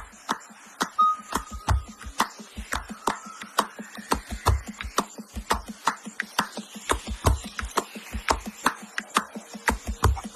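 Hand-drum percussion: a quick, irregular run of sharp slapped strokes mixed with deep low strokes, about three to four a second.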